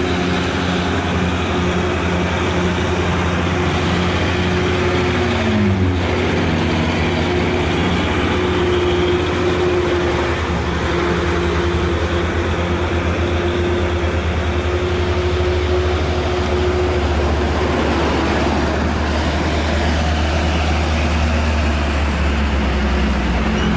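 Heavily loaded diesel truck engine running steadily on a hill climb; its pitch drops about five seconds in, then holds steady.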